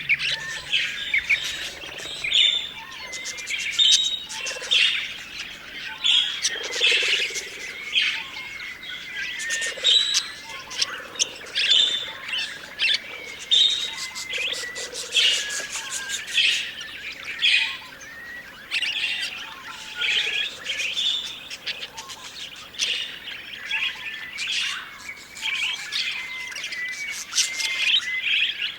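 Budgerigars chirping and warbling in a steady stream of short, high chirps and chatter.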